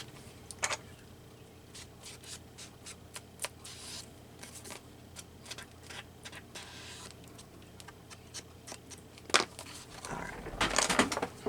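Paper and craft supplies handled on a worktable: scattered light taps and clicks, a sharper tap near the start and another near the end, then a short rustle of paper, over a faint steady hum.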